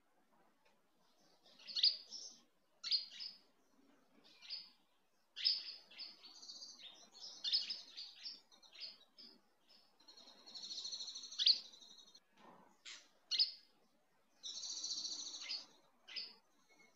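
Birds chirping in many short, high calls, with two longer trilling stretches in the second half.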